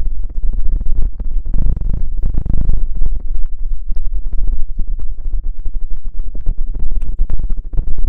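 ASMR rustling and scratching on the microphone, heard very close and loud: a dense, irregular run of scratchy strokes with a strong low rumble from handling of the microphone.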